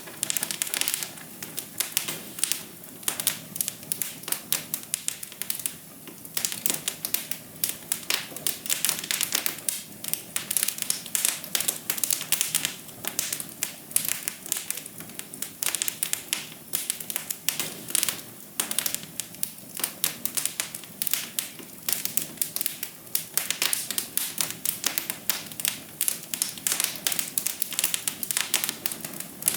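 Wood fire crackling in a fireplace: dense, irregular pops and snaps, several a second, over a soft steady hiss.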